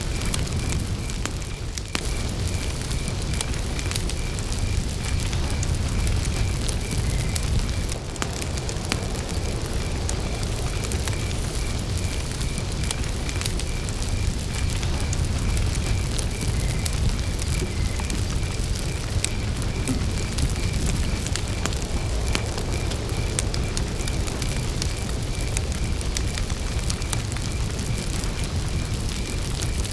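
Wood campfire burning, with scattered crackles and pops over a steady low rumble. A cricket chirps steadily throughout in a high, evenly spaced pulse.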